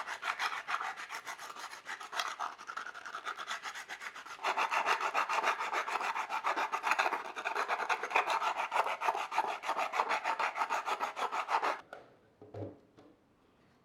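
Fast, rhythmic rubbing strokes, growing louder about four and a half seconds in and stopping suddenly near the end, followed by a couple of faint knocks.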